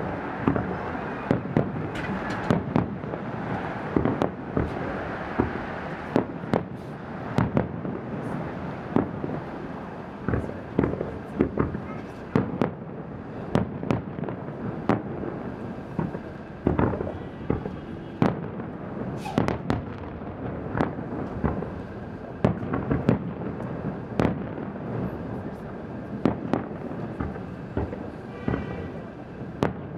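Aerial fireworks display: shells bursting in quick, irregular succession, at times several bangs a second, over a steady wash of noise between the bursts.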